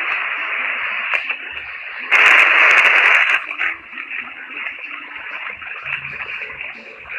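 Played-back 'sound of Mars' recording: a narrow-band, radio-like hiss of static with scattered crackles, surging louder about two seconds in, then easing off.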